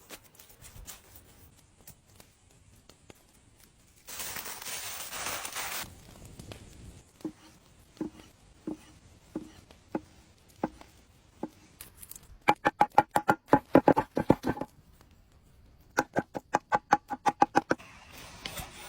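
Knife chopping food on a cutting board: a few seconds of hiss, then slow single cuts, then two runs of rapid, loud chopping.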